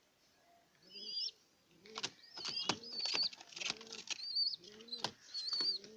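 Pigeons cooing in short repeated calls, mixed with repeated high, wavering chirps and a few sharp clicks, starting about a second in.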